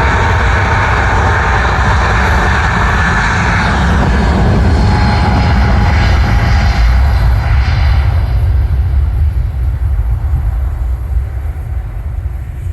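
Boeing 777-300's twin jet engines at takeoff power: a loud, steady roar with a deep rumble. The higher hiss fades after about eight seconds as the aircraft draws away.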